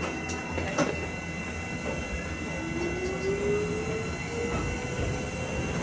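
Ichibata Electric Railway train running on the line, heard from inside the cab: a steady rumble with a couple of clicks about a second in, and an electric motor whine that rises slowly in pitch in the second half as the train gathers speed.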